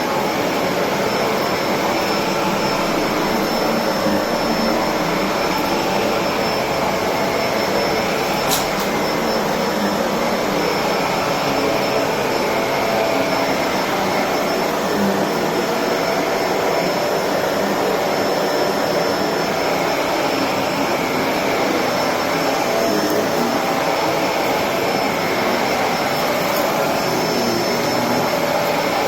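Electrolux Precision bagless upright vacuum cleaner running continuously, a steady motor noise with a thin high whine. The sound swells slightly about every three seconds. There is one sharp click about eight and a half seconds in.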